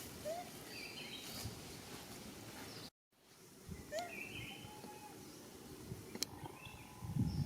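Outdoor ambience with birds chirping in short warbling calls, heard several times over a low background hiss; the sound cuts out completely for a moment about three seconds in.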